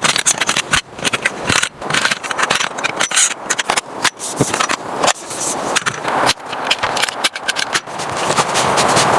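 A run of irregular close clicks, knocks and scrapes, growing louder and denser near the end.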